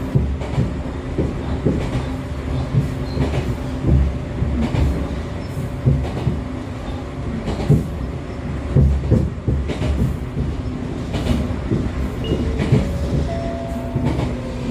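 Echizen Railway MC6101 series electric railcar running between stations, heard from inside. Its MT54 DC series-wound traction motors and gears give a steady whine over the running rumble, with irregular clacks of the wheels over rail joints. The car is the one known for an abnormal running noise.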